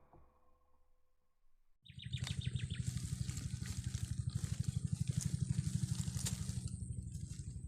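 Near silence for about two seconds, then outdoor sound comes in abruptly: a rapid, steady low throbbing of about ten pulses a second with a thin high-pitched chirping above it.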